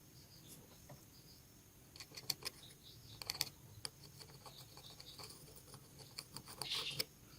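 Small clicks and taps from hand tools on a mobile phone's small plastic and metal parts, with a short scraping rasp near the end.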